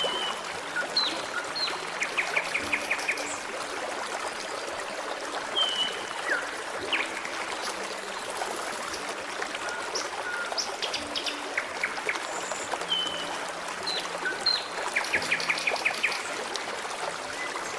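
Forest stream flowing steadily, with birds singing over it: scattered short whistled notes and slurs, and twice a quick run of about seven repeated notes.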